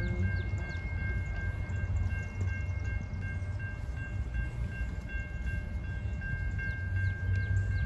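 Low, steady rumble of a distant train that is not yet in sight, with a steady high-pitched tone and rapid faint chirps over it.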